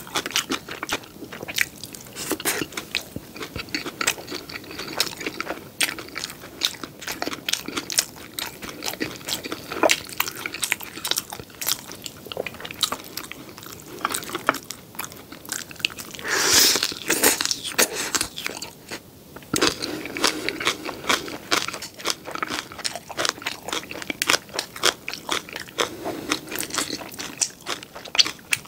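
Close-miked chewing and crunching of crispy battered sweet and sour pork and green onion kimchi: a dense, irregular stream of wet crunches and mouth clicks, with a brief louder burst about two-thirds of the way through.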